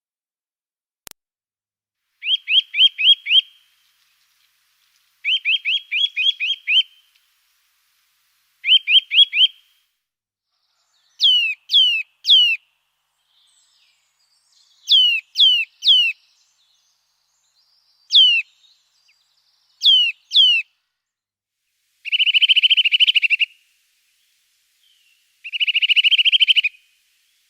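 A songbird singing in separate phrases of clear whistles. There are quick runs of five or six notes, then loud down-slurred whistles singly or in twos and threes, and two fast trills near the end.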